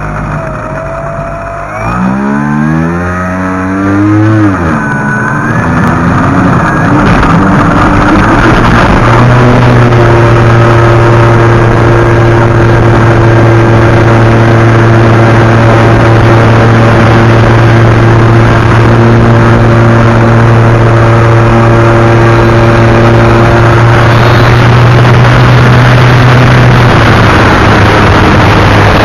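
Radio-controlled model Cessna's motor spinning up, its pitch climbing over a couple of seconds, then running steadily at high throttle as one loud, even drone, with wind noise over the microphone.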